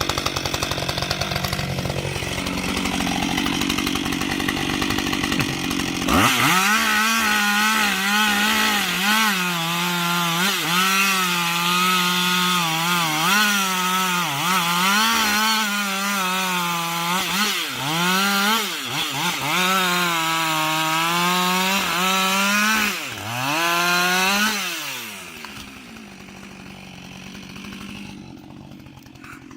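A chainsaw running at high revs and cutting wood, its pitch dipping and recovering again and again as the chain loads up in the cut. It comes in about six seconds in after a rough, noisy stretch, and near the end it drops away to a much quieter sound.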